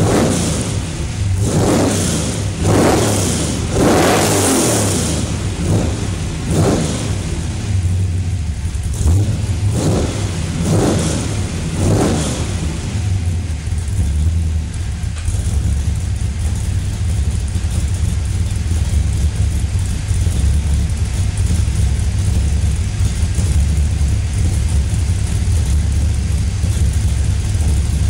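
Cammed LS1 5.7-litre V8 in a Mazda RX-7, heard at the exhaust through dumped Magnaflow mufflers. For about the first twelve seconds it is blipped repeatedly, each rev rising and falling quickly. It then settles into a steady idle.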